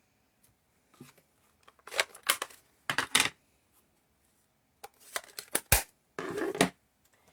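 Paper and cardstock being handled: several short rustles and scrapes, with a sharp click a little before the end.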